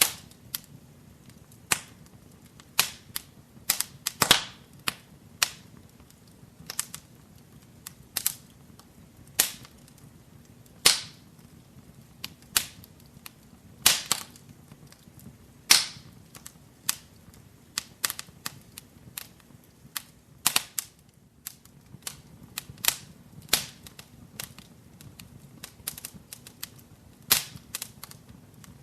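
Wood fire burning in a fireplace, crackling with sharp, irregular pops, some loud and some faint, over a faint low steady rumble of the flames.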